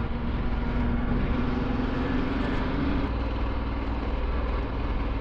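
Ducati Multistrada 1260 S's V-twin engine running on the road, under steady wind and road noise. The engine note rises a little, then drops about three seconds in.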